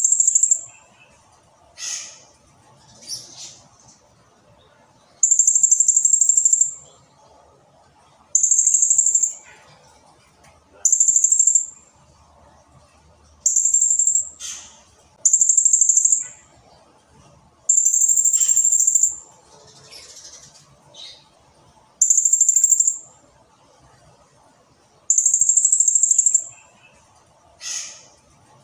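Blue-crowned hanging parrot (serindit) calling: a series of high-pitched held notes, each about a second long, repeated every two to three seconds, with a few short falling squeaks in between.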